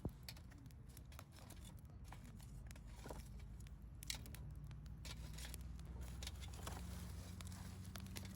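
Wood campfire crackling: scattered sharp pops and snaps, one stronger snap at the start and another about halfway. A low steady hum comes in under it from about halfway.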